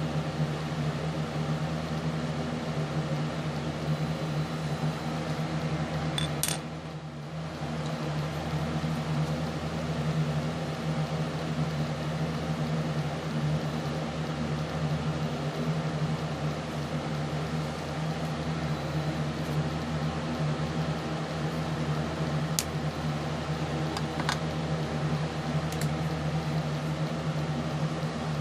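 Steady mechanical hum that dips briefly about six seconds in, with a few faint clicks scattered through it.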